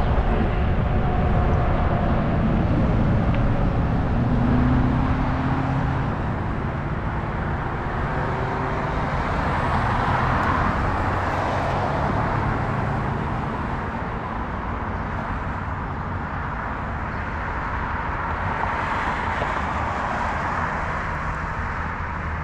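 Wind rumbling on a bike-mounted camera's microphone, mixed with the hiss of a Zota Zephyr e-bike's 20-inch fat tyres rolling on the road. The noise swells and eases a couple of times, around ten and nineteen seconds in.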